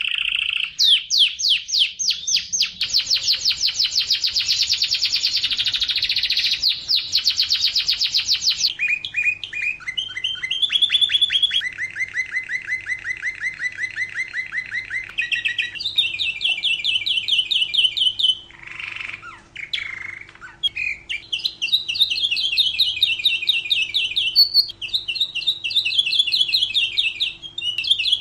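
Domestic canary singing a continuous song of rapid trills and rolls, fast runs of repeated notes that shift in speed and pitch every few seconds. There is a short break of rougher, noisier notes about two-thirds of the way through, with a faint steady hum underneath.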